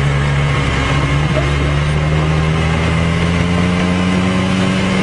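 Motorcycle engine running at road speed, its pitch rising slowly as it gathers speed, over road noise.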